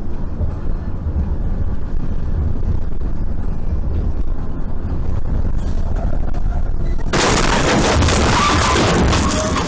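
Low, steady road and engine rumble as heard by a car's dash camera. About seven seconds in, a sudden loud rushing, crackling din breaks in and goes on for a few seconds.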